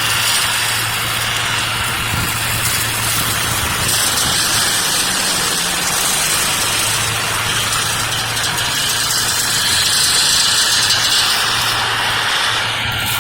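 A working machine's engine running steadily, a constant low hum under a loud, even rushing noise.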